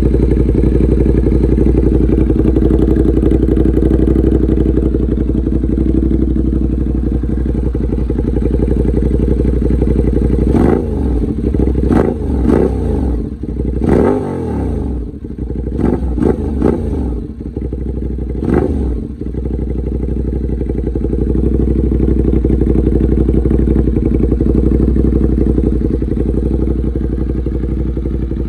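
Ducati Monster 821's 821 cc L-twin engine idling steadily, then revved in a run of about six quick throttle blips, each rising and falling in pitch, before settling back to idle.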